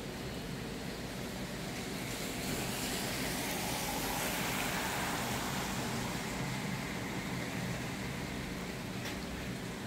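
Steady hiss of rain, swelling into a louder rush for a few seconds in the middle, over a faint low hum.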